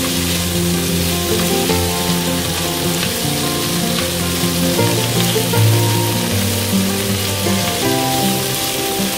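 Tofu, chicken and onions sizzling in a hot pan as they are stir-fried, with the utensil stirring and scraping now and then. Background music with sustained notes plays over the sizzle.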